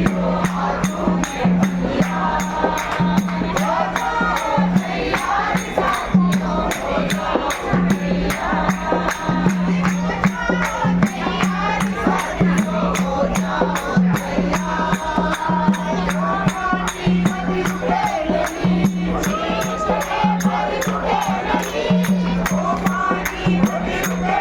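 A group of voices singing a devotional chant, with rapid jingling percussion like tambourine or cymbals and a steady low drone under it.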